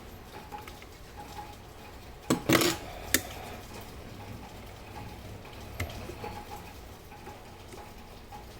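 A few sharp metallic clinks and knocks: a quick cluster about two and a half seconds in and a single one just after, with a few fainter clicks around them.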